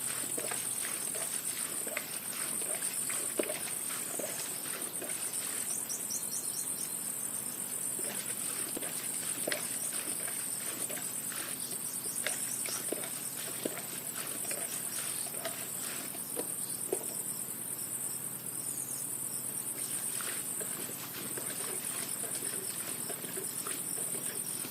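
A chorus of insects, such as crickets, chirping in a steady, high, pulsing drone that dips briefly a few times. Scattered small knocks and rustles sound over it.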